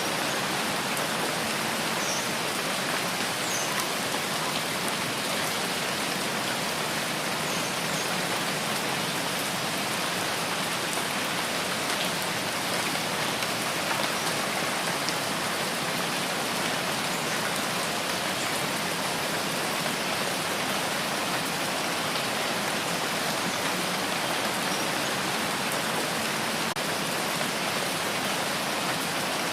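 Steady rain falling, an even hiss of drops with a few faint individual drip ticks.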